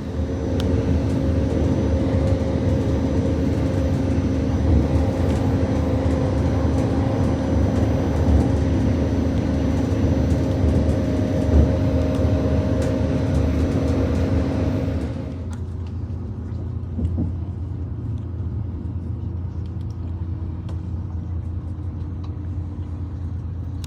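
Class 220 Voyager diesel train running, a steady rumble with a constant engine hum. About two-thirds of the way through the engine note drops away suddenly and the sound goes quieter, leaving the rumble and a faint, slowly falling whine.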